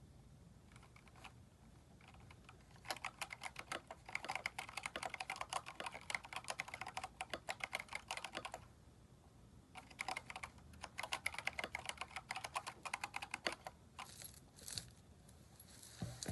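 Typing on a Keychron K4 mechanical keyboard fitted with aftermarket keycaps: two fast runs of keystrokes, with a short pause between them and a few single key presses around them.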